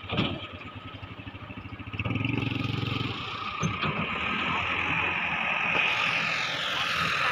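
Heavy excavator's diesel engine running with an even pulsing beat, with a single knock right at the start. The engine gets louder about two seconds in, and from about three seconds a steady high whine sits over the machine noise.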